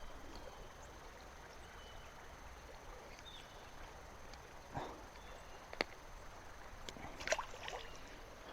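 Quiet riverbank ambience with a faint hiss of flowing water and a few faint high chirps. Several short sharp clicks and knocks from handling the fishing gear and catch come in the second half.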